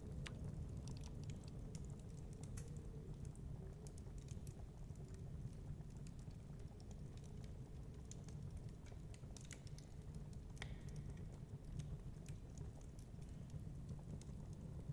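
Fireplace crackling: irregular small sharp pops and snaps, a few to several a second, over a steady low rumble.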